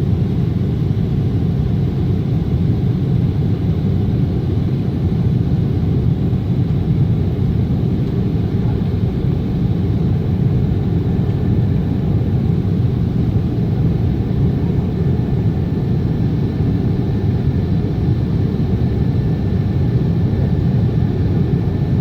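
Steady low rumble inside the passenger cabin of a Boeing 777, the noise of its jet engines and the air rushing past the fuselage.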